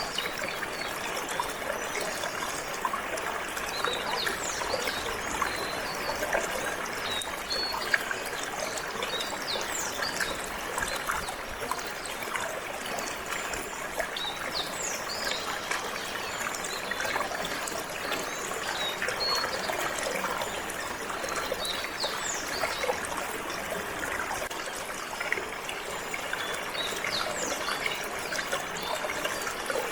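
Water flowing and trickling steadily, with short, high, falling bird chirps every second or two.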